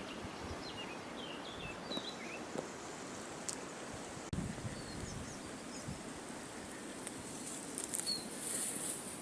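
Outdoor ambience with small birds chirping in short high calls now and then over a faint steady hiss, with a few light clicks and a soft thump about four seconds in.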